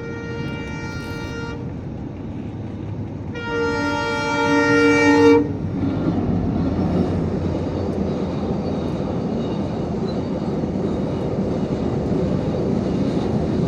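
Train horn sounding twice: a single-note blast that stops about a second and a half in, then a louder blast of several tones together lasting about two seconds. A steady low rumble follows, like a train passing.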